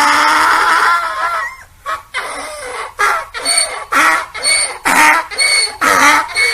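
Donkey braying: one long drawn-out call, then a rapid run of alternating hee-haws about two a second.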